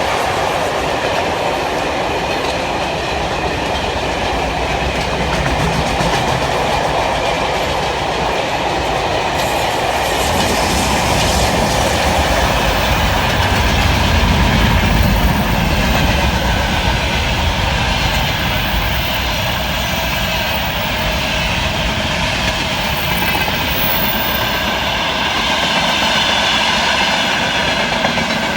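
Freight train wagons rolling past, wheels clattering steadily over the rail joints with a low rumble and faint high-pitched wheel squeal. The rumble swells about halfway through.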